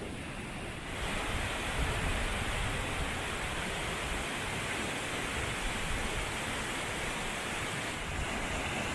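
Steady rushing water of a mountain waterfall, a dense even hiss that gets louder in a step about a second in.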